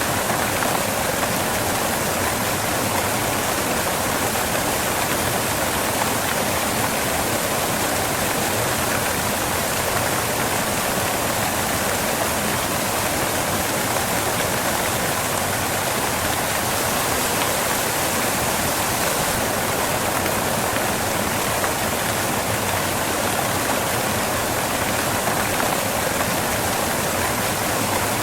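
Waterfall: water crashing onto rocks in a steady, unbroken rush.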